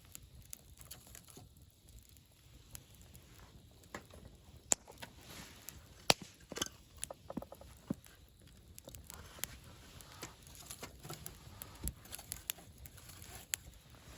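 Wood campfire burning, crackling with irregular sharp pops over a soft hiss; two louder pops come about five and six seconds in.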